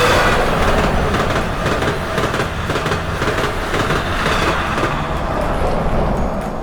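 Train passing, a loud rush of wheel and rail noise that swells right at the start and again about four seconds in, then eases off near the end.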